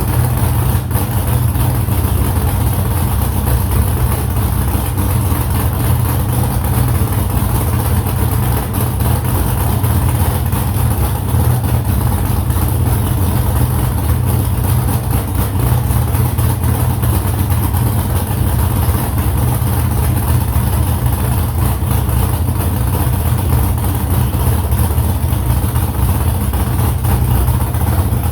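Freshly built car engine running at a steady speed on its first run after the build, a loud, even low drone with no revving.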